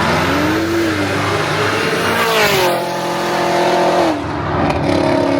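Car engine revving hard as a car pulls away and accelerates. The engine note climbs over the first two seconds, eases back, then drops and picks up again about four seconds in, like a gear change.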